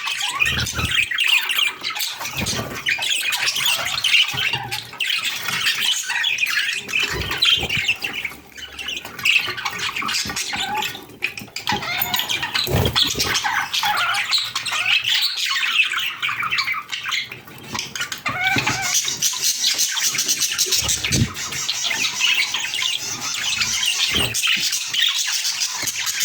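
Several budgerigars chattering and warbling without pause: overlapping chirps, squawks and rapid warbled phrases, with higher-pitched calls growing busier in the last third.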